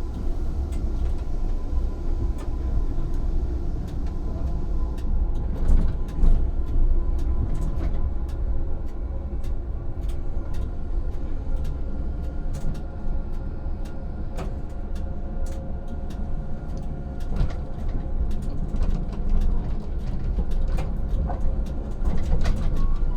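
Electric tram running, heard from the driver's cab: a steady low rumble with a few faint steady tones above it and scattered sharp clicks throughout.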